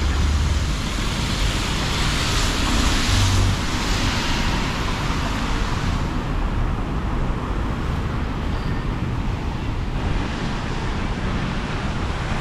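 Street traffic noise with wind rumbling on the microphone, steady throughout, with a swell of hiss about two to four seconds in.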